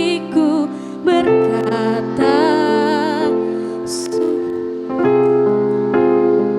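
School choir singing with keyboard accompaniment: wavering sung notes over held chords, a sung "s" about four seconds in, then the keyboard's chords carry on alone.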